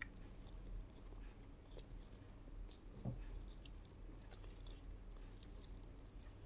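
Close-miked chewing of a mouthful of fried fish and rice, with soft wet mouth clicks and one low thump about three seconds in, over a faint steady hum.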